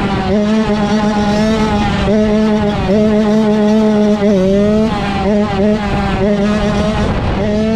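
Dirt bike engine held at high, steady revs, its pitch dipping briefly and climbing back every second or so.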